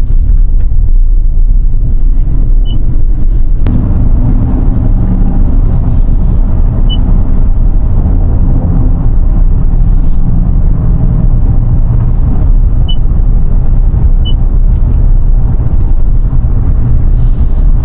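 Steady, loud motor-vehicle rumble of a vehicle driving, with a sudden change in the sound about four seconds in.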